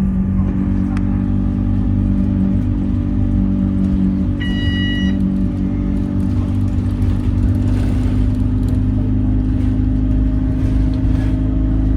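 Motor vehicle engine running steadily with a low hum, and a short high beep a little over four seconds in.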